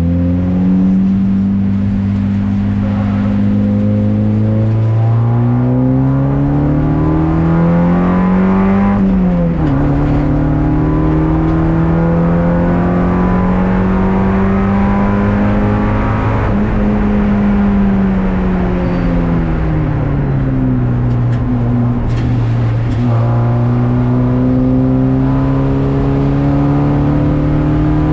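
Race car engine heard from inside the stripped, caged cockpit. It pulls up through the revs, drops sharply on an upshift about nine seconds in and climbs again. Past the middle it eases off and slows, then accelerates again near the end.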